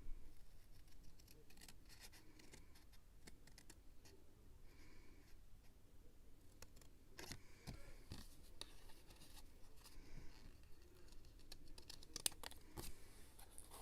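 Quiet scrapbooking sounds: paper and craft tools handled on a desk, with scattered soft clicks, taps and paper rustles.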